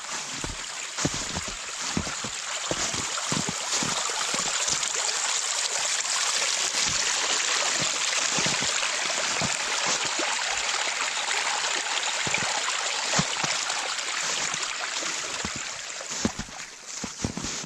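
Steady rushing water, with scattered low thuds that come more often near the start and end.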